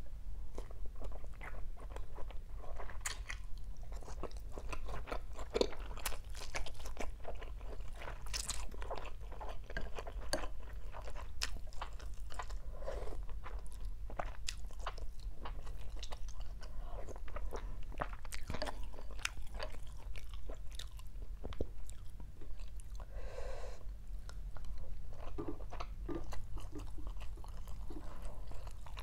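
Close-miked chewing and biting with crisp crunches, a person eating rice vermicelli with salmon fish cakes and raw greens. Short sharp crackles come thick and fast throughout.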